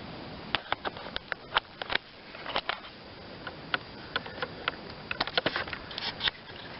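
Irregular sharp clinks and knocks of a mower blade and its hardware being handled against a steel mower deck. They come in two clusters, one near the start and a denser one about five seconds in.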